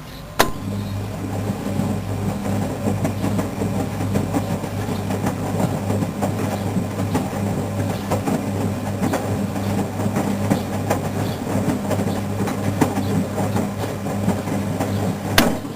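Washing machine running under PLC control: a click switches it on, then a steady mains hum with rattling and small clicks for about fifteen seconds, cut off by another click near the end.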